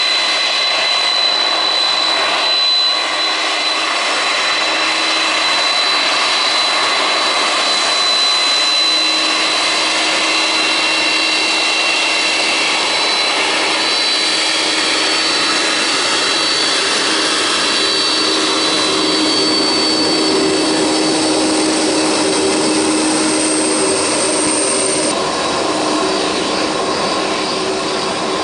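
Boeing 747-400's four turbofan engines running at taxi power: a steady jet whine and hiss with several held tones, which shift in pitch near the end.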